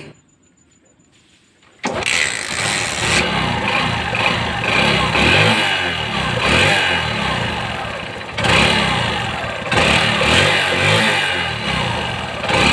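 Motorcycle engine starting about two seconds in, then running with several throttle blips that rise and fall, its spark plug freshly cleaned of carbon from a rich mixture.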